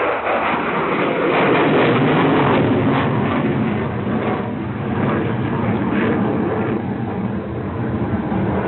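Jet noise from an F-16 fighter flying a display, loudest a second or two in and easing a little after.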